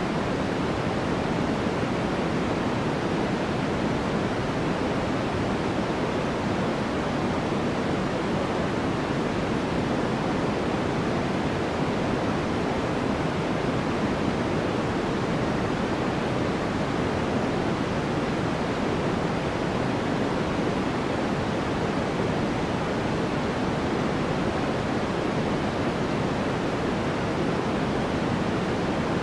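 Steady, unbroken synthetic noise of the kind sold as white noise for sleep, weighted toward the low and middle range like pink noise, with no change in level or pattern.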